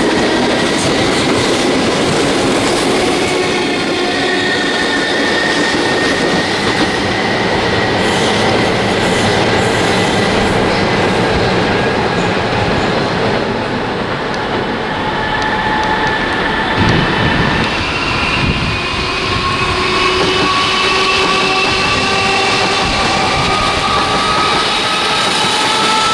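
Electric multiple-unit trains running along the tracks: a steady rumble and rattle of wheels on rail, with drawn-out whining tones that slowly rise and fall.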